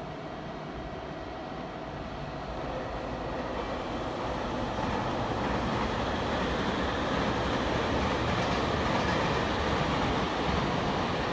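Electric limited express train running past on the tracks, its rolling noise growing steadily louder as it approaches.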